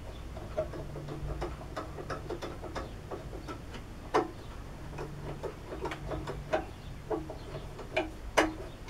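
Irregular small metal clicks and taps as lathe parts and fittings are handled and put in place, with two sharper knocks, one about four seconds in and one near the end.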